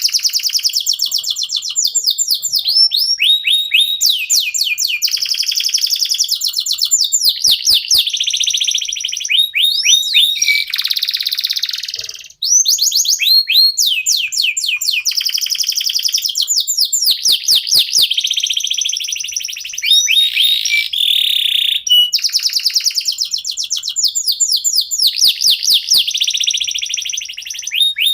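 Local domestic canaries singing continuously in long, fast trills of rapidly repeated sweeping notes, with a brief break about twelve seconds in.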